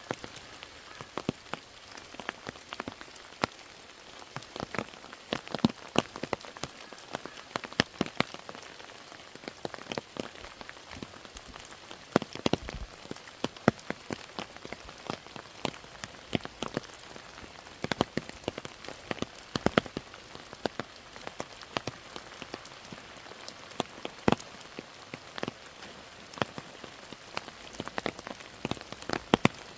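Steady rain with many separate drops tapping close by at an irregular pace, some much louder than the rest.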